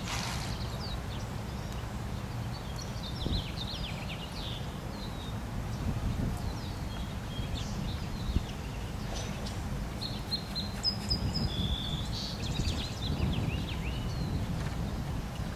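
Small birds chirping and calling in short scattered bursts over a steady low outdoor rumble.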